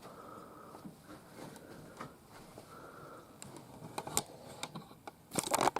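Light handling noise with a few faint clicks, then a quick run of louder sharp clicks and knocks near the end, as of something small and hard being handled or set down.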